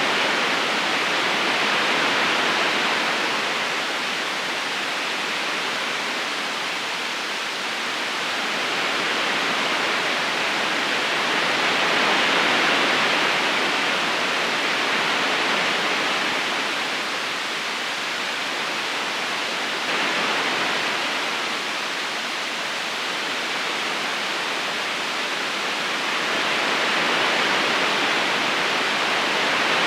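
River current flowing steadily over stones: an even rushing of water that swells and eases slowly every several seconds.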